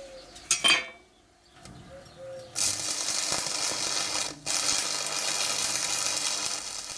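A sharp knock, then stick (arc) welding on square steel tube: a steady arc crackling and hissing for about four seconds, briefly breaking off once midway.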